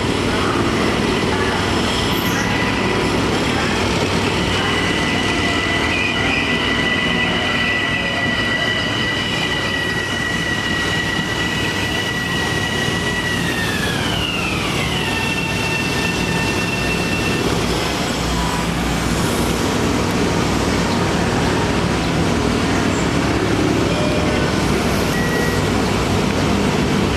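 Bombardier M7A electric multiple unit train running past with steady rail noise. A high whine holds steady, then drops in pitch about halfway through as the train goes by, and fades out soon after.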